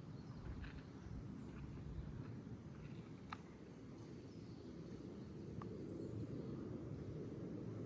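Faint outdoor background rumble with a couple of soft, isolated clicks.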